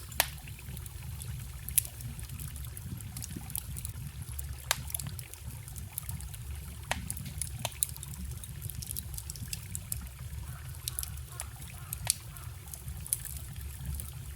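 Wood campfire crackling, with sharp pops every second or two, over the steady low rush of a forest stream.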